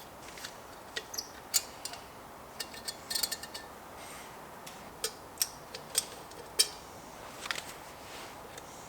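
Scattered light clicks and taps of a hand tool and small metal parts while the muffler cover of a chainsaw is being taken off, about a dozen at irregular intervals.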